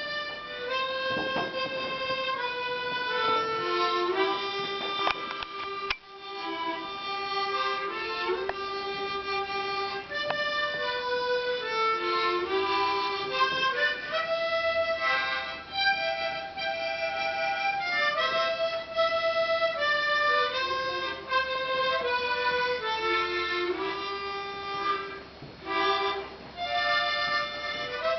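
A harmonica playing a solo melody of held notes.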